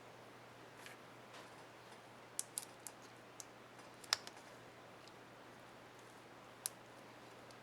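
Small, sharp plastic clicks from handling an HP ENVY 15 laptop's space bar keycap and its clips: a scattered handful, the sharpest about four seconds in.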